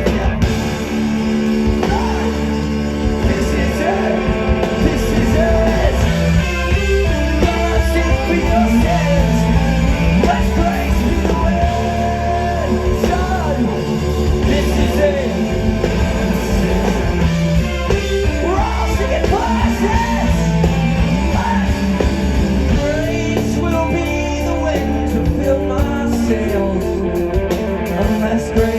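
Live rock band playing loudly, with distorted guitars, bass and drums, and singing or shouted vocals over the top.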